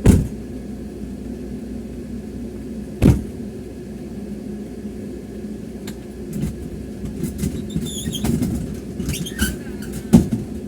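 Steady low rumble of an ambulance, broken by three heavy thumps: one at the start, one about three seconds in and one near the end. Light clicks and rattles come in the second half.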